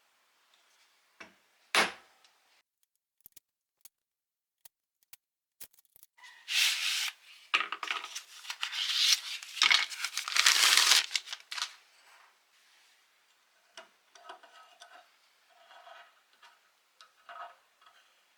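A single knock, then a few light clicks, then about five seconds of rasping, scraping noise from hand work on the tractor's oil pump parts, ending in faint clicks and rustles.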